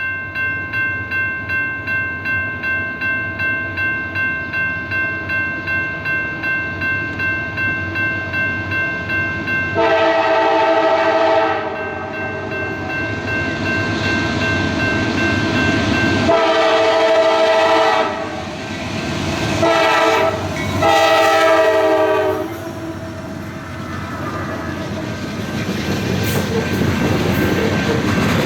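A grade-crossing bell clangs steadily about twice a second. Then a freight locomotive's air horn sounds the grade-crossing signal: long, long, short, long. After it, the train's rumble builds as it comes through.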